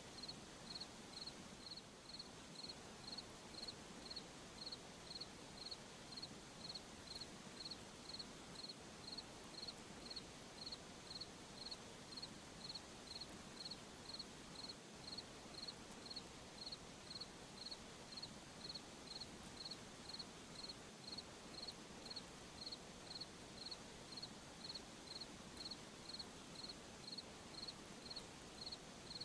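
A cricket chirping steadily, about one and a half high chirps a second, over a faint even hiss of night ambience.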